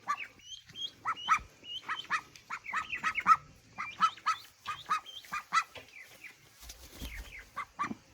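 Young duck quacking in a run of short, rapid calls, with some higher chirps mixed in.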